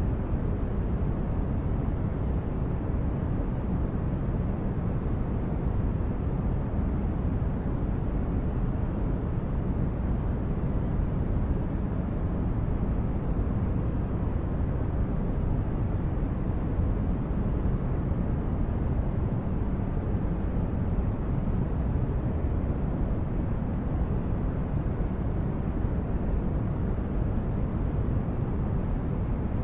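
Synthetic spaceship-interior ambience: a steady deep rumbling drone, like brown noise, that holds an even level throughout.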